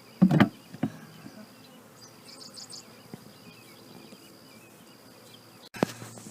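Honey bees buzzing around an open hive, a low steady hum with a thin high whine above it. Two loud knocks come in the first second. Near the end the sound cuts abruptly to louder clattering.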